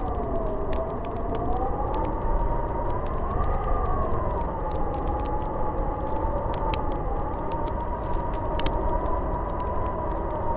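Snowstorm wind howling: a whistling tone that slowly rises and falls over a low, steady rush. Scattered light ticks run through it.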